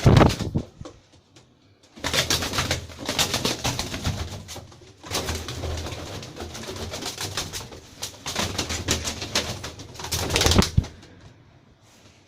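A pair of Ferozpuri pigeons cooing and stirring in a small room. A short loud burst at the start is followed by three spells of dense rustling and fluttering, each two to three seconds long.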